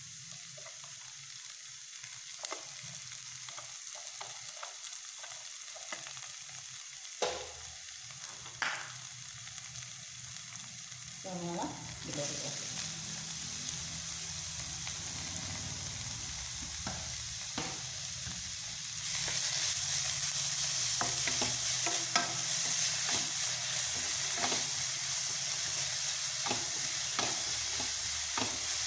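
Chopped okra and onion frying in coconut oil in a stainless steel pan: a steady sizzle with scrapes and taps from a wooden spatula stirring. The sizzle grows louder in two steps, about halfway through and again about two-thirds of the way in.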